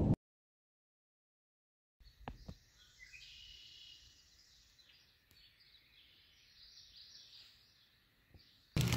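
Rain-and-thunder noise cuts off at once, leaving near silence. A few faint bird chirps come about three seconds in, with a couple of soft clicks.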